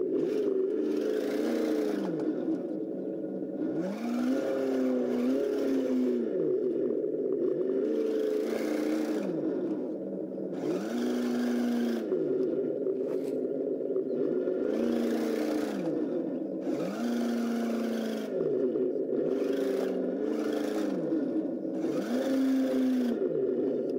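Electronic engine-sound simulator on a 1/12-scale Kyosho Blizzard DX RC snow vehicle, its simulated engine revving up and dropping back again and again, about every two seconds, following the step throttle of the mechanical speed controller. A whir from the electric drive comes and goes with each rev.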